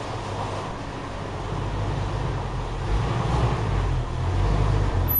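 Jeep Wrangler TJ engine idling: a steady low hum that grows a little louder about three seconds in.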